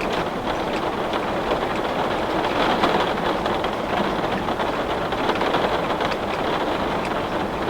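Heavy rain falling steadily on a window, a dense even hiss with faint scattered drop ticks against the glass.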